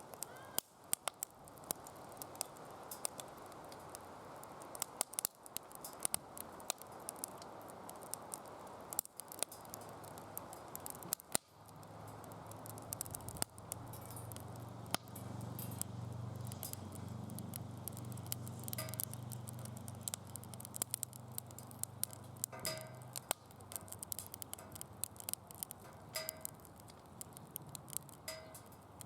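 Wood fire crackling in a DOD Mecha Moe Fire fire pit, with many sharp snaps and pops scattered throughout. A low steady hum comes in about twelve seconds in and fades out some ten seconds later.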